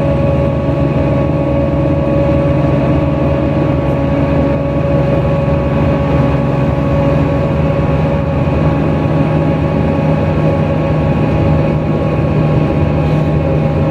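NefAZ-5299 city bus running steadily, heard from inside the passenger cabin: a constant engine drone with an unchanging whine over it.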